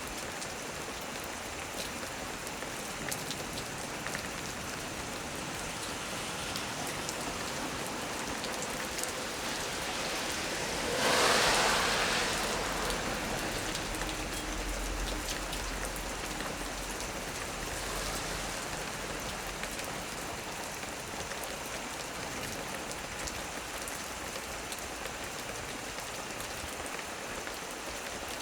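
Heavy rain falling steadily. About eleven seconds in, a clap of thunder breaks, followed by a low rumble that dies away over several seconds.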